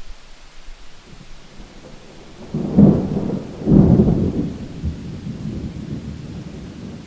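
Thunder rumbling over steady rain: two loud claps about two and a half and four seconds in, then a fading roll.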